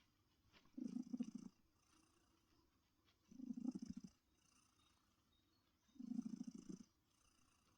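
Domestic cat purring close up, in three bursts about two and a half seconds apart with quieter gaps between.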